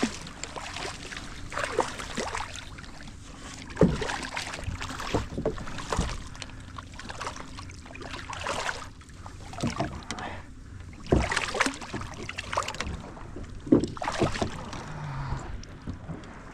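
Water slapping and sloshing against the hull of a drifting boat, in irregular splashes every second or two, over a faint steady hum.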